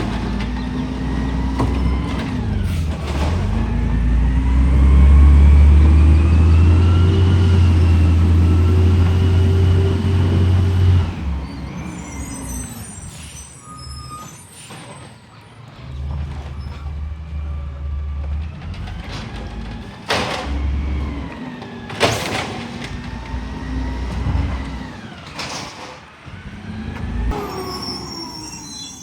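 Garbage truck at work: its engine revs up and holds high for several seconds before dropping back, then idles and revs again. Sharp knocks come three times in the later part.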